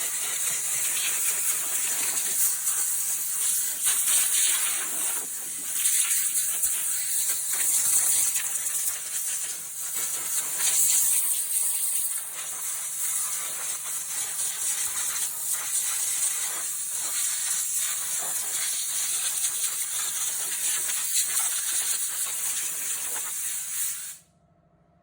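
A high-pressure jet in engine-bay cleaning, hissing steadily with uneven swells, then cutting off suddenly about 24 seconds in.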